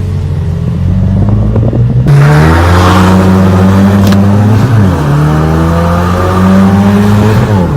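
Car engine run at high revs under heavy throttle, held at a steady pitch with a rushing hiss joining about two seconds in; the revs dip briefly and recover twice in the second half.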